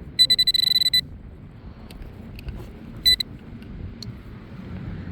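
Nokta Accupoint pinpointer beeping rapidly for about a second as it closes in on a buried target, then one short beep about three seconds in. Wind buffets the microphone throughout.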